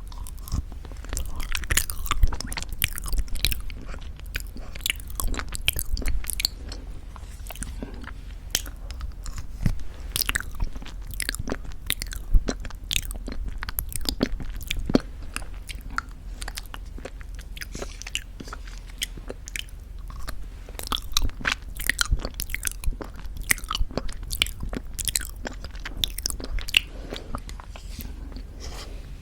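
Close-miked ASMR mouth sounds of eating very thick Greek yogurt with honey: wet, sticky smacking and chewing clicks, irregular and continuous.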